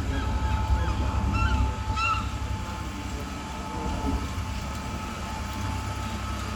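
Diesel train engine running with a steady low rumble and a steady whine. A few short high chirps come about one and two seconds in.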